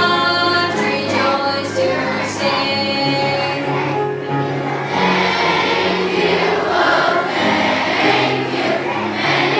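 A children's choir singing a song, with sustained low accompanying notes beneath the voices.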